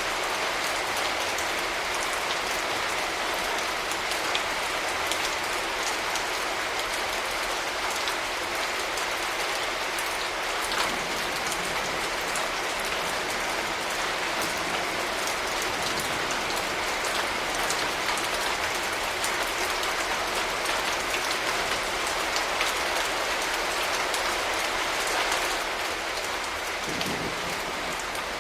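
Steady rain falling, with many separate drop hits ticking through a constant hiss.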